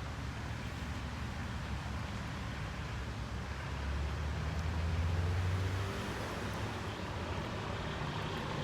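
Outdoor background noise with a low engine rumble that swells about four seconds in and eases after about six seconds.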